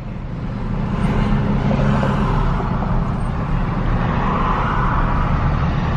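Car engine running steadily with tyre and road noise, heard from inside a moving car.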